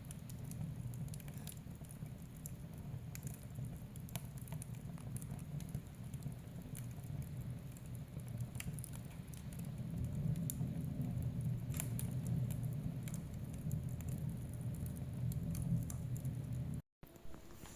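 Wood fire burning in a fireplace: a steady low rumble of flames with scattered crackles and pops. The sound cuts out briefly near the end and comes back quieter.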